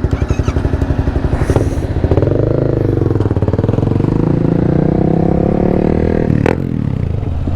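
Yamaha MT-07 parallel-twin engine idling with an even, pulsing beat, then revving up about two seconds in as the motorcycle pulls away and holding a steady pitch. Near the end the pitch drops back and the engine note gets quieter.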